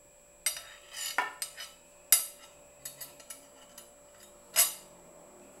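A spoon clinking and scraping against a bowl or plate while food is scooped: about ten irregular knocks and clatters, the loudest about two seconds in and another near the end.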